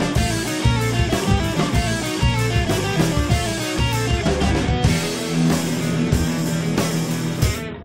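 Rock band music with guitar and a drum kit playing a busy, driving passage without vocals. About five seconds in the cymbals thin out and a long low note is held. The music cuts off abruptly at the very end.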